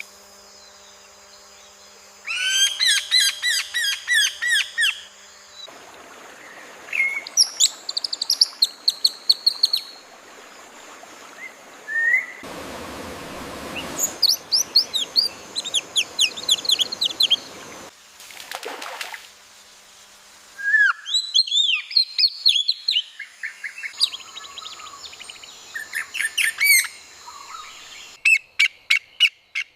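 AI-generated birdsong: songbirds singing in bursts of quick, high, repeated chirping notes, one phrase after another every few seconds. There is a brief rush of noise about halfway through.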